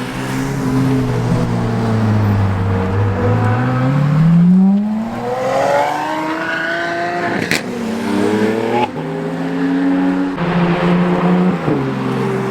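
Car engine pulling away: its note sags, then climbs sharply in a hard acceleration about four to six seconds in. A sharp crack comes about seven and a half seconds in, then the engine settles into steadier running.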